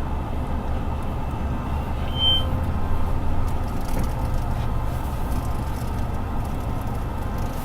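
Steady low rumble, with a short high beep about two seconds in.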